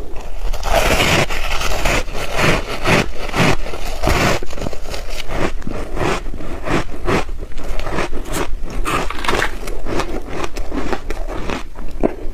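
Crunchy ice being bitten and chewed close to the microphone: a dense, irregular run of loud crunches and crackles.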